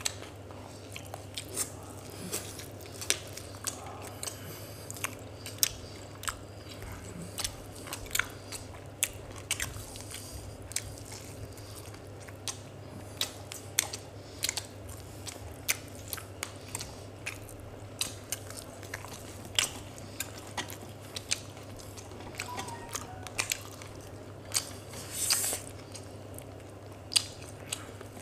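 Two people eating roasted chicken leg pieces with their hands: biting meat off the bone and chewing, with scattered sharp wet clicks of the mouth about one or two a second. A steady low hum runs underneath.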